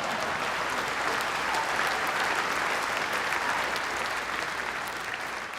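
Theatre audience applauding, with steady clapping after a punchline that tapers off slightly near the end.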